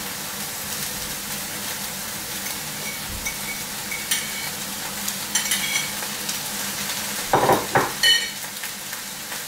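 Rice, tuna and broccoli frying in soy sauce in a pan, a steady sizzle while being stirred. Light clinks of the utensil on the pan come about halfway through, and a few louder scrapes near the end.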